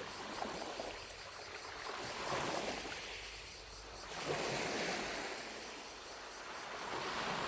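Small lake waves lapping at the shore, a wash swelling and fading every two seconds or so. Behind them, distant cicadas make a faint, high, rapidly pulsing buzz.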